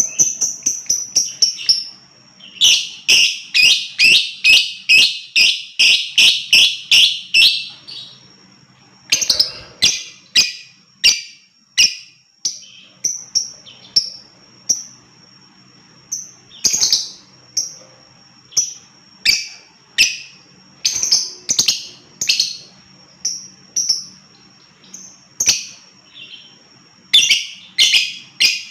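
Lovebird calling with shrill, high chirps. A fast run of chirps starts about two and a half seconds in and lasts some five seconds, spaced single chirps follow, and another fast run starts near the end.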